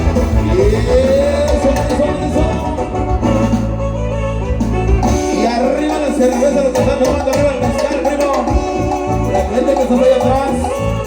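Live Latin American dance band playing a cumbia-style number, with sustained melody lines over the rhythm and possibly sung parts; the heavy bass drops out about five seconds in.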